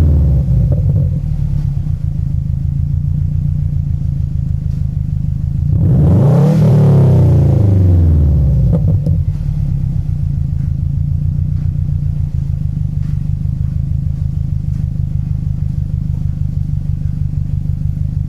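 2008 Subaru WRX's turbocharged flat-four engine, heard through an Invidia N1 cat-back exhaust, idling with a steady low pulse. It settles from a rev at the start and is blipped once about six seconds in, the note rising and falling back to idle over about three seconds.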